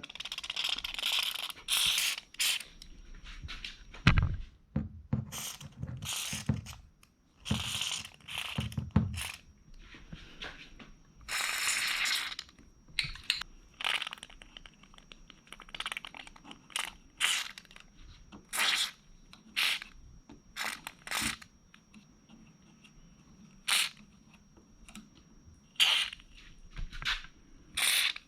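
Aerosol can of white lithium grease being sprayed in repeated short hissing bursts, some about a second long, onto garage door hinges and arm bar, with a few low knocks between bursts in the first third.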